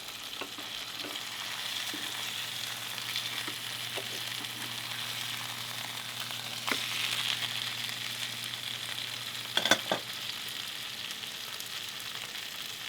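Yanmar marine diesel running in the engine room as it is checked for leaks after a new wet muffler is fitted: a steady hiss over a low, even hum. A few sharp clicks or knocks, the loudest a pair about ten seconds in.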